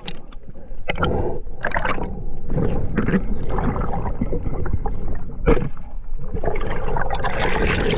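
Water gurgling and sloshing around the camera in the sea, with irregular short knocks and splashes.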